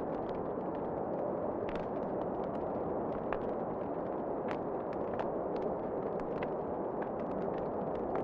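Wood fire crackling in a fireplace, with irregular sharp pops over a steady rushing roar of wind.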